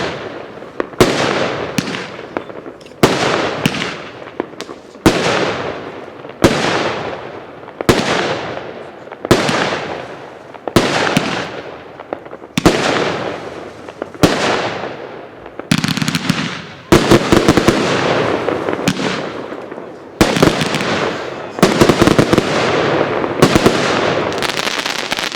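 Consumer fireworks cake 'Swirling Daisy' firing its shots: a sharp bang about every second and a half, each trailing off in a fading hiss. From about two-thirds of the way through, the shots come thick and fast in a dense volley.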